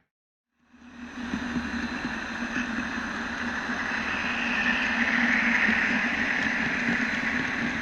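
HO-scale model train running along the layout track, heard from the caboose it pulls: a steady rolling rumble with a constant hum. It fades in about a second in after a moment of silence.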